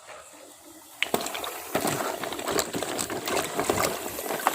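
Water splashing and sloshing as toy vehicles are washed, with many small clicks and knocks; it starts abruptly about a second in after a quieter opening.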